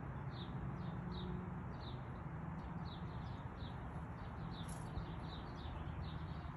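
A bird chirping over and over, short downward notes about two or three a second, over a steady low background hum.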